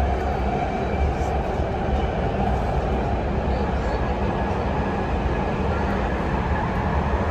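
Passenger train running, heard from on board: a steady low rumble with even noise over it.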